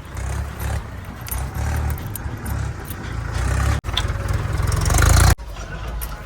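Diesel engine of heavy earth-moving machinery running under load with a heavy, uneven low throb. It grows louder from about three seconds in and is abruptly cut off twice, just before four seconds and a little after five.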